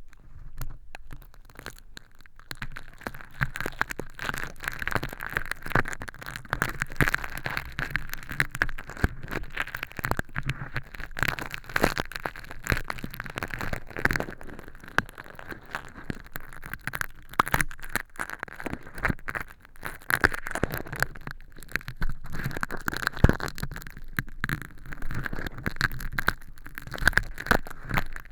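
Tweezers scraping and peeling crispy fake earwax made of crash hologram film inside a silicone ear model, giving a continuous close crackling and crinkling with many small clicks.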